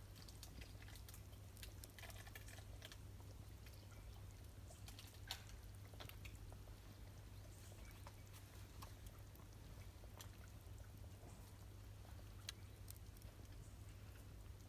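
Faint wood campfire crackling: scattered small pops and ticks at irregular intervals over a steady low hum.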